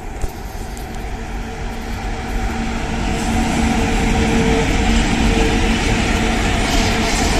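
VL11M two-section electric freight locomotive passing close by: a steady hum over the rumble of its wheels on the rails, growing louder over the first three seconds and then holding as the locomotive goes past and the first open wagons follow.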